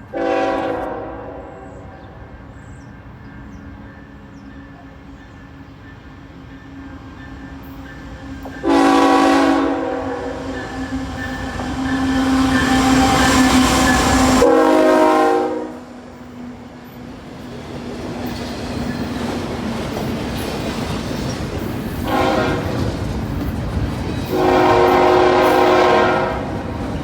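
Canadian National freight locomotive's air horn: a brief blast at the start, a long blast of about six seconds starting near nine seconds in, a short one around 22 seconds and another long one near the end. Underneath, the rumble of the approaching train grows louder in the second half.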